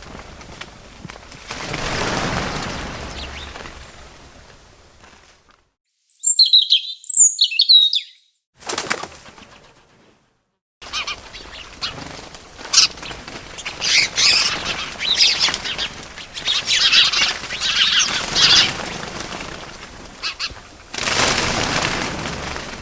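Bird wings flapping in swells of rustling, with a few short high chirps about six seconds in and a long stretch of chirping and fluttering through the middle. The sound cuts out completely twice for a moment.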